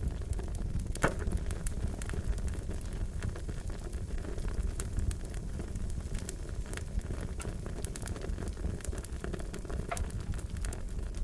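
Wood fire crackling and popping steadily over a low rumble of flame, with scattered sharp pops, one louder one about a second in.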